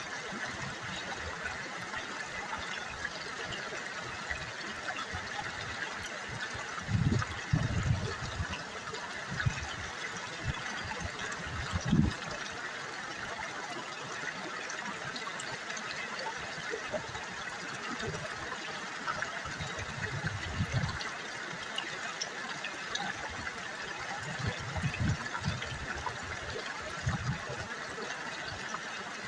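River water babbling and trickling steadily over stones, with a few brief low bumps now and then.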